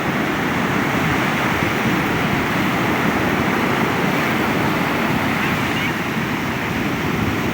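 Sea surf washing in continuously, a steady rushing noise with no breaks.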